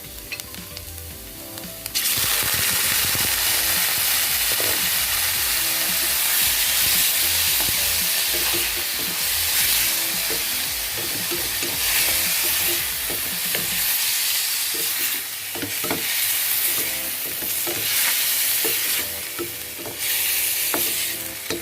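Chicken liver frying in hot oil: a loud sizzle that starts suddenly about two seconds in and keeps going, with a utensil clicking against the pan as it is stirred.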